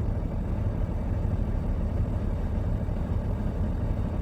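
Steady low rumble of a semi-truck's engine, with no distinct events.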